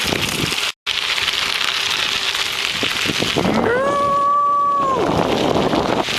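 Wind buffeting the microphone while cycling, a steady hiss with crackle, cut off briefly near the start. From about halfway through, a person's voice holds one long steady note that slides up at the start and falls away at the end.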